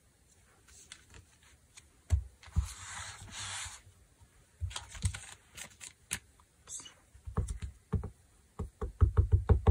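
Handling clicks and a short rustle as a silicone stamp is swapped, then rapid light tapping, several taps a second, near the end: an ink pad being dabbed onto the stamp.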